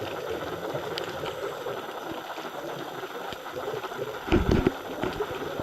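Muffled underwater noise heard through a dive camera's housing, a steady hiss with a few faint clicks, and a louder rush of bubbles a little over four seconds in.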